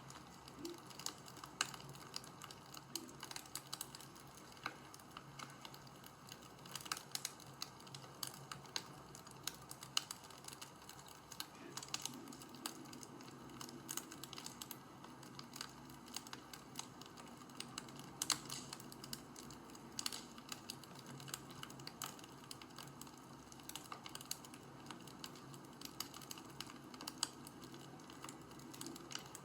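Wood fire crackling: irregular sharp pops and snaps, some louder than others, over a faint steady hiss.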